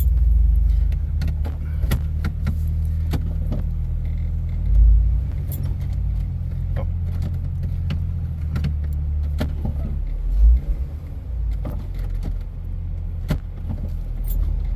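Vehicle engine idling, heard from inside the cabin as a steady low hum, with scattered sharp clicks and rattles. The vehicle has stopped driving, which the driver puts down to the electronics reading the transmission as stuck in neutral.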